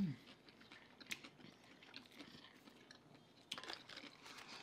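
Faint close-up chewing and mouth clicks of people eating king crab and salad, with a denser run of small clicks and crunches about three and a half seconds in.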